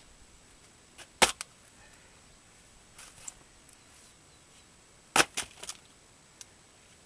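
Axe blows striking a round of damp, unseasoned willow firewood: two sharp chops about four seconds apart, each followed by a few smaller knocks. The wood is wet through, so it does not split easily.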